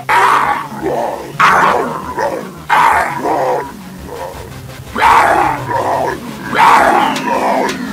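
Five loud animal-like cries, each about a second long, dubbed over quiet background music.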